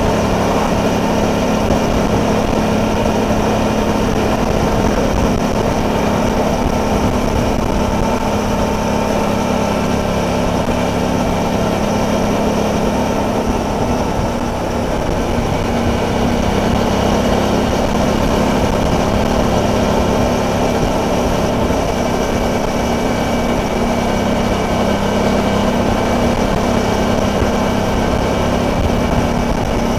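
Suzuki DL650 V-Strom's V-twin engine running steadily at road speed, mixed with wind and road noise.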